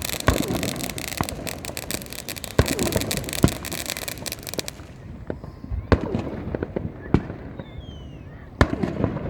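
Fireworks going off: sharp bangs every second or so, over a dense crackling that stops about five seconds in.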